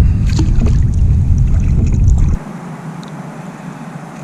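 Wind buffeting the microphone: a heavy low rumble with a few light knocks in the first second, which drops away abruptly a little past halfway, leaving a quieter hiss.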